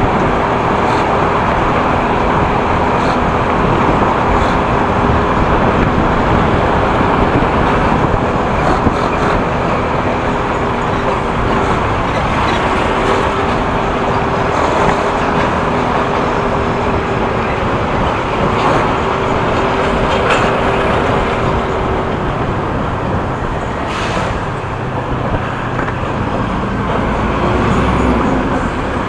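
Motorcycle ridden through city traffic: its engine runs steadily under loud wind and road noise, with other vehicles around.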